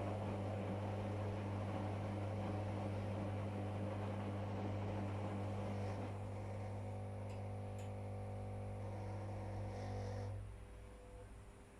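Whirlpool FL 5065 washing machine's drum motor running during a wash with a steady hum. The hum shifts and eases after about six seconds, then stops about ten seconds in, as the drum pauses between turns.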